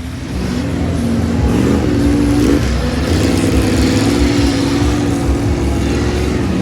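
Big off-road truck's engine revving hard: the revs climb in steps over the first couple of seconds and then are held high and steady, dropping right at the end.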